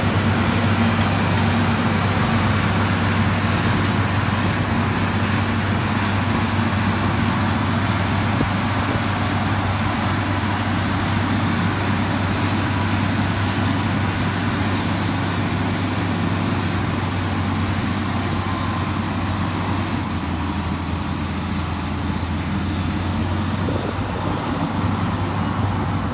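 Diesel engine of a heavy road-construction machine running steadily under load, with a constant low drone over broad mechanical noise. It eases off slightly in the last few seconds.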